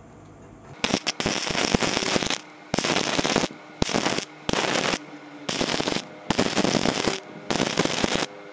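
Electric arc welding crackling in a series of short bursts, about half a second to a second each, with brief pauses between them and a faint steady hum under them.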